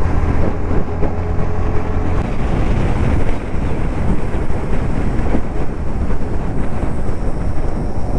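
Motorcycle running at road speed, its engine hum under a steady rush of wind on the rider's microphone.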